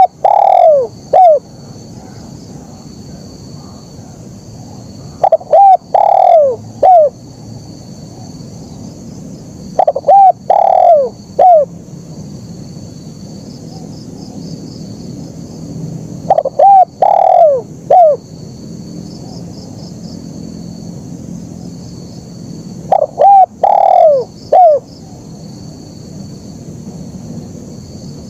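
Spotted dove (tekukur) cooing: five loud three-note coo phrases about six seconds apart, each note a short falling hoot. Each phrase ends in a single short 'kuk' note, the song type fanciers call kuk 1. Under the calls runs a steady high hiss.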